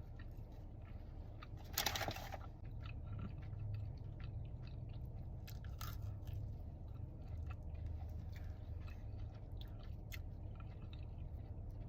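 Close-miked chewing of a pesto chicken flatbread: a louder crunchy bite about two seconds in, then steady chewing with many small clicks.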